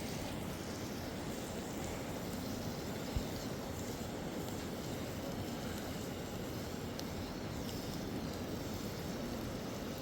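Steady low rushing of wind buffeting the microphone, with one faint knock about three seconds in.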